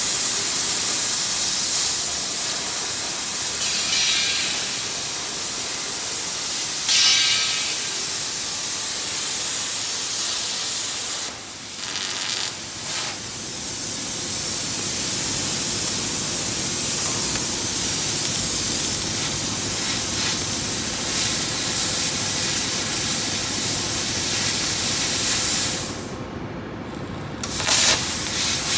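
Steady loud hiss of rushing air from a hot-air dryer blowing. It drops away sharply about eleven seconds in and again near the end, then picks up again.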